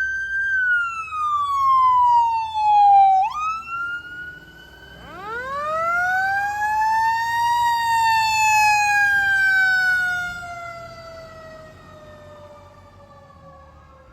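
Emergency-apparatus sirens on a passing fire engine and ambulance. A wailing siren falls in pitch and snaps back up at about three seconds; then a siren winds up about five seconds in, peaks, and slowly winds down, fading toward the end.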